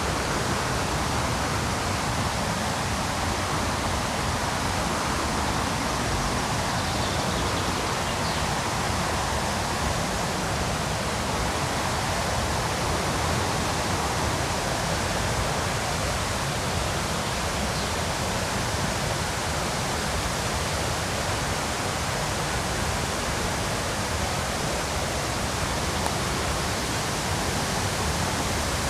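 River rapids rushing in a steady, even roar of water.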